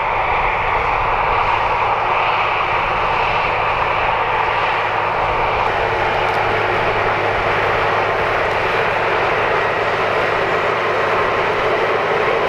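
Large diesel farm tractor engine running at a steady, loud drone.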